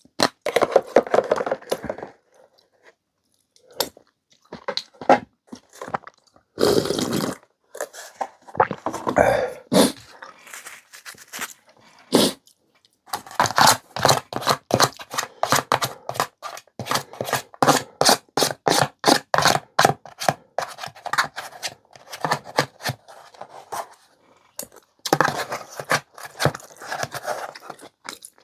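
Close-miked eating sounds: rapid, irregular wet chewing with scraping from utensils, in a clam-and-seaweed noodle and cockle rice meal. There is a few seconds of denser chewing clicks in the middle.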